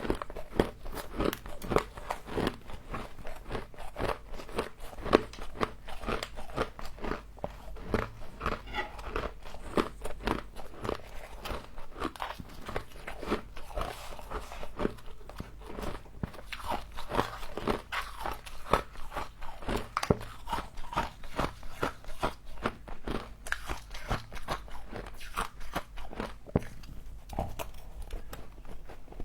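Humidifier frost being bitten and chewed close to the microphone: continuous rapid crunching.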